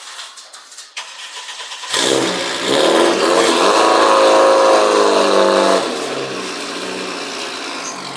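A car engine comes in suddenly about two seconds in and revs, its pitch wavering up and down, then drops to a steadier, quieter run for the last couple of seconds.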